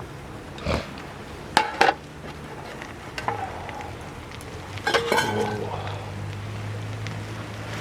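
Metal cookware and utensils clinking and clanking, a few sharp knocks with short ringing: a pair about a second and a half in and a cluster about five seconds in. A steady low hum runs underneath.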